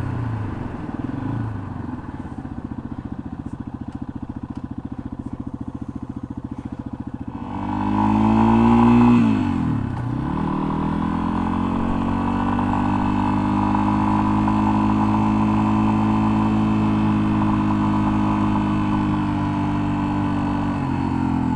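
2021 Yamaha XT250's single-cylinder engine. It slows and idles with an even pulse, then pulls away about seven seconds in, shifts up about two seconds later, runs steadily at cruising speed, and eases off near the end.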